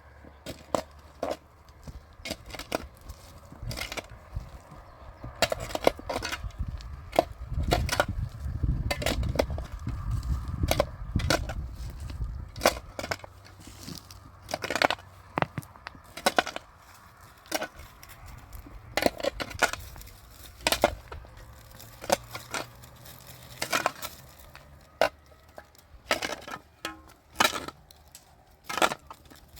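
Irregular sharp knocks and taps, dozens of them at uneven intervals, with a low rumble from about seven to twelve seconds in.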